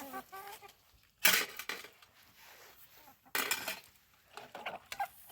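Two loud clattering crashes about two seconds apart, with lighter knocks and clinks between them, like hard household objects or dishes being knocked about.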